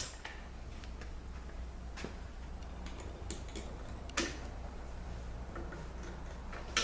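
A few scattered light clicks and taps of transmission parts and hand tools being handled during a 200-4R teardown, over a steady low hum.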